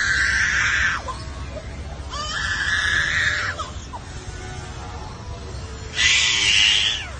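A bird giving loud, harsh wailing calls that sound like a baby crying: three cries, one right at the start, a longer one a few seconds in and one near the end, with fainter wavering notes between.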